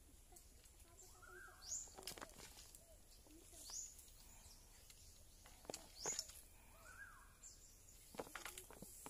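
Faint bird calls: short high chirps sweeping upward, recurring every couple of seconds, with a lower arched call twice, among a few sharp clicks.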